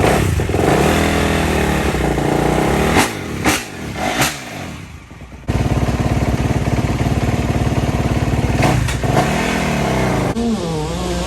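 Dirt bike engines revving up and down, with a few sharp clicks. Just after halfway the sound breaks off briefly, then an engine runs at steady revs.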